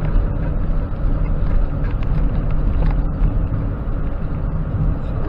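A 2016 Volvo automatic dump truck driving, with the steady low drone of its diesel engine and road rumble.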